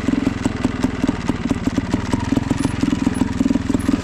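Two-stroke trials motorcycle engine running at low revs, a rapid uneven putter.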